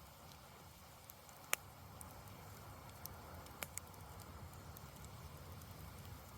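Campfire burning with a few scattered crackles and pops over a low steady rumble; the sharpest pop comes about one and a half seconds in.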